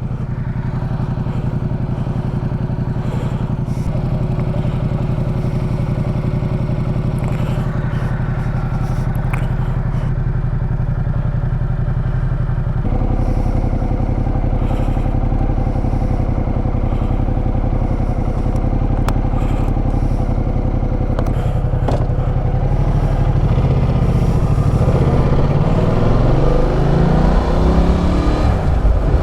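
Ducati Multistrada 1200's L-twin engine running steadily, stepping to a different pitch partway through. In the last several seconds its pitch climbs and drops repeatedly as the bike accelerates through the gears.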